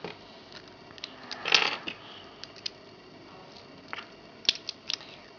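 Beyblade parts clicking and scraping as they are handled and fitted together. There are a few sharp clicks and a brief scraping rustle about a second and a half in.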